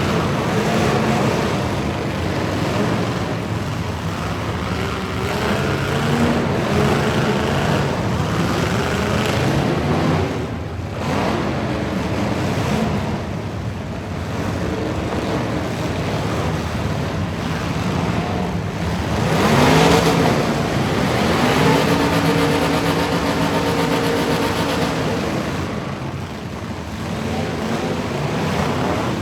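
Truck engines running hard and revving, their pitch climbing and falling several times, with the loudest rising surge about two-thirds of the way through.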